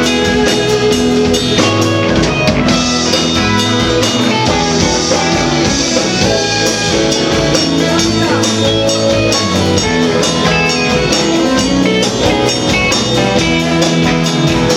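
A band playing an instrumental passage of a song, with guitar and drums keeping a steady beat.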